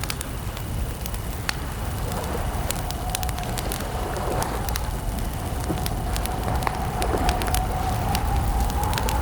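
Campfire crackling: wood burning with a low steady rumble and frequent sharp, irregular pops and snaps. A faint steady tone joins about three seconds in.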